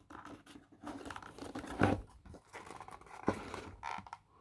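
A blade scraping and slicing through tape on a toy's packaging: irregular scratchy, tearing rasps, with two sharper clicks about two and three seconds in.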